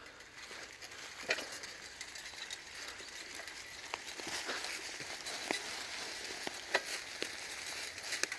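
Bicycle rolling along a rough trail: a steady hiss of tyres with many scattered clicks and rattles.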